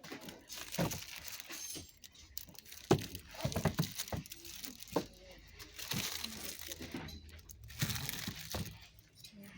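Hard objects, glassware among them, clinking and knocking together as they are handled. There are irregular sharp knocks with short ringing, the loudest about three seconds in.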